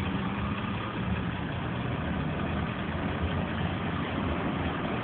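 Steady low hum of a car engine idling, heard from inside the car's cabin, with faint traffic noise around it.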